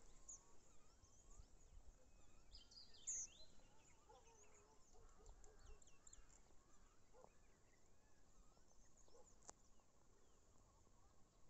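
Quiet outdoor ambience with scattered faint bird chirps, one somewhat louder burst of calls about three seconds in.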